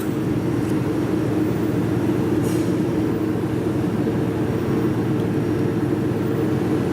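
A steady low machine hum, even throughout, with one faint tick about two and a half seconds in.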